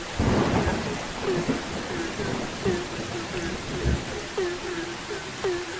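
Frogs calling in a chorus, short croaks repeating several times a second, over steady rain. A low rumble of thunder comes right at the start, with a few fainter low thumps after it.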